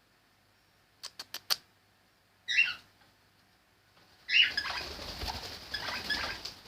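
Pet parrot sounds: four quick clicks about a second in, a short chirp at about two and a half seconds, then another chirp as several seconds of rustling and scrabbling begin near the end.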